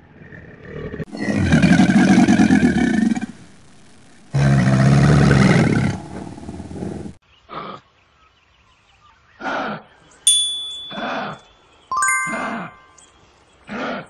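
Two long, loud growling calls from a large animal in the first six seconds, then a string of five short calls from kangaroos, a second or two apart. A bright bell-like chime rings about twelve seconds in.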